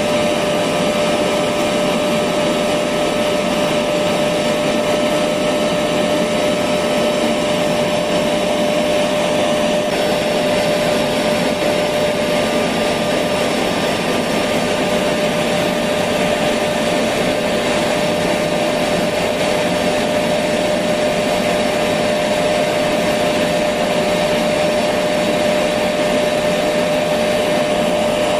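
Electric vacuum cleaner running steadily: a continuous rush of air and motor noise with a high whine held on one note, unchanging throughout.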